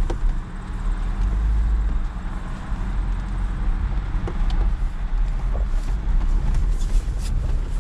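Off-road vehicle's engine running steadily, a low rumble with a few light knocks.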